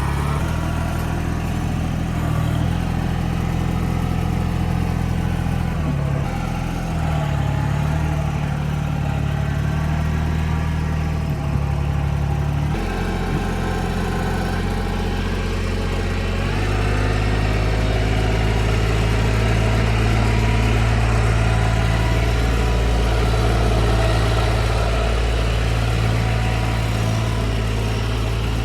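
TYM 224 compact tractor's diesel engine running steadily while box-blading. Its note shifts a couple of times in the first half, changes abruptly about 13 seconds in, and from about 17 seconds settles into a steady, deeper run.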